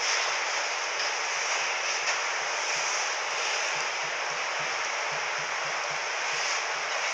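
Steady hiss of broad background noise, with no distinct events.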